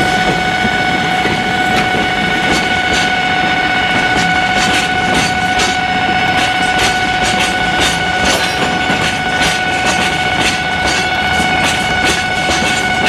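Freight train of cement tank wagons rolling past behind a DD51 diesel locomotive: wheels clicking over the rail joints, the clicks coming more often in the second half, over a low engine rumble. A steady high-pitched tone runs underneath.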